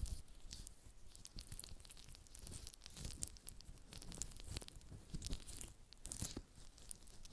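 Faint, close-miked crackling and rustling: many small irregular clicks and soft taps with an occasional low thump.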